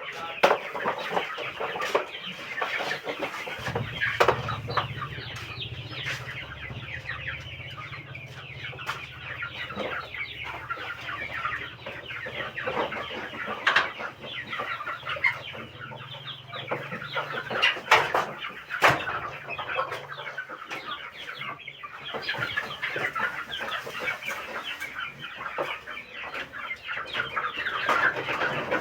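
A flock of village chickens (ayam kampung) clucking and calling over one another in a steady, busy chorus, with scattered sharp clicks.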